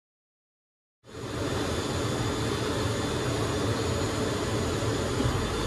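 Steady jet engine noise, a rushing roar with deep rumble, starting abruptly about a second in.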